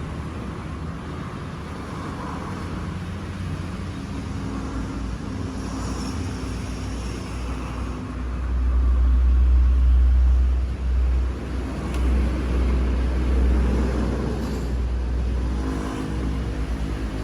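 Nitro two-stroke engine of a Hobao Hyper VS RC buggy running during break-in, held at half throttle. It runs steadily at first, then turns louder and deeper from about halfway, dipping and surging before easing off near the end.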